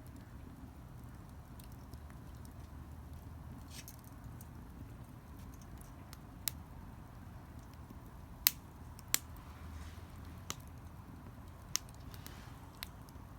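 Wood fire burning in a bucket fire pit, with a low steady rumble and a handful of sharp, irregular crackling pops from the burning wood in the second half.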